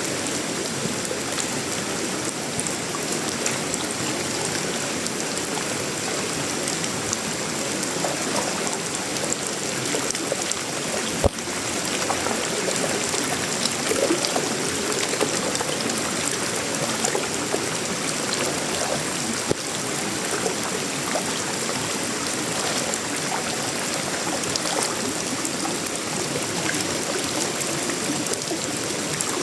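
Steady tropical rain falling on sheet-metal roofing, wood and leaves, a dense patter of drops without a break. One sharp knock stands out about eleven seconds in.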